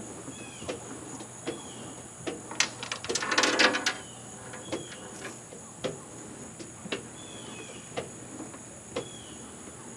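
Scattered light clicks and knocks of hand tools and parts being handled on an outboard motor, with a louder rattling clatter about three seconds in. A steady high-pitched hiss runs underneath.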